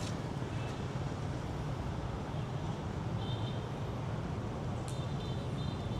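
Steady road traffic rumble, with two brief high chirps about three seconds in and near the end.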